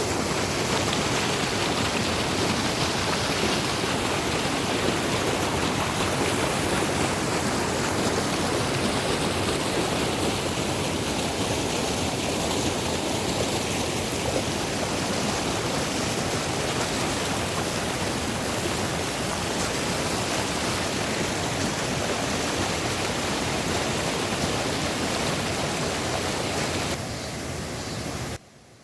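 Mountain stream rushing steadily; the sound steps down near the end, then cuts off abruptly.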